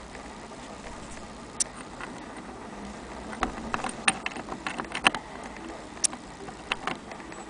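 Irregular small clicks and taps of an antique Jones sewing machine being handled. A single click comes first, then a quick cluster about halfway through and a few more near the end.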